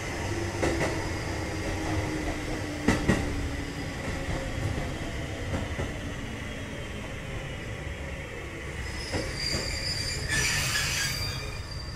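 Kotoden 1070-series electric train car running along the line, heard from inside: a steady rumble of wheels on rail with a few sharp rail-joint knocks. A high wheel squeal rises about nine seconds in and fades near the end.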